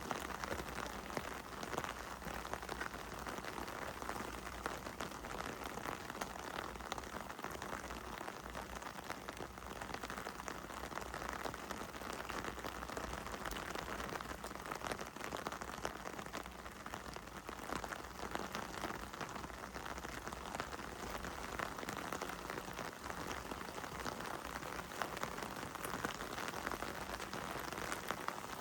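Heavy rain falling steadily: a dense, even patter of many drops hitting hard surfaces.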